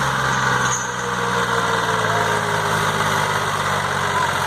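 Belarus tractor diesel engine running steadily.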